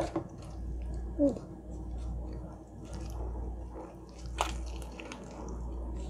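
Close-miked biting and chewing of a spicy fried chicken sandwich topped with mac and cheese, with wet, squishy mouth sounds and a sharp crunch of the crispy breading about four and a half seconds in.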